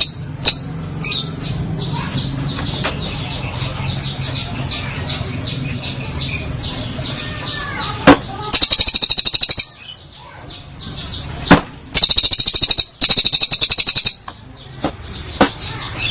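A songbird singing a long run of quick, evenly repeated high notes, about four a second. In the second half come three very loud, harsh rattling bursts of about a second each.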